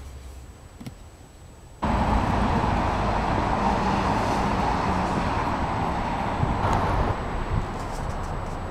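Steady road traffic noise that cuts in abruptly about two seconds in and eases slightly near the end.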